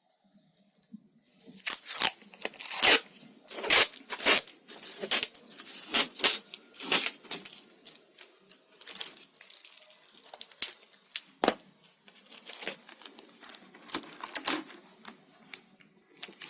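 Sellotape being pulled off the roll and torn, with paper crinkling as the tape is pressed down: a long run of sharp, irregular rips and crackles that starts about a second and a half in.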